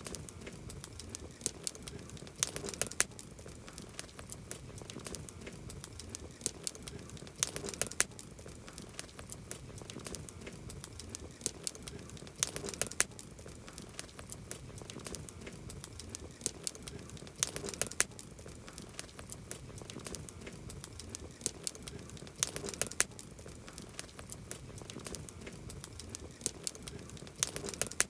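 Wood campfire burning and crackling, with a continuous patter of small crackles and a louder cluster of sharp pops about every five seconds.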